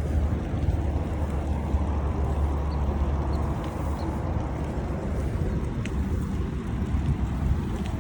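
Wind buffeting the microphone of a moving bicycle rider, a steady low rumble with a few faint ticks.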